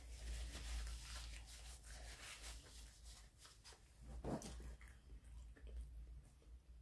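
Faint close-up chewing of food, with a paper napkin rustling during the first couple of seconds.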